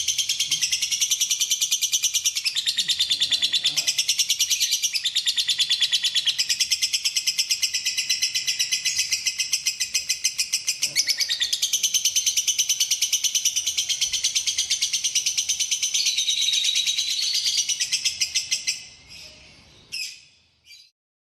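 Lovebird singing a long, unbroken run of fast, high chattering chirps and trills. The song fades out near the end, leaving a few short notes.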